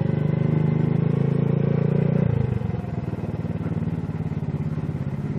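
Engine of an SSR Razkull 125 pit bike, a 125 cc single-cylinder four-stroke, running under the rider; it drops to a quieter, steadier run about two seconds in.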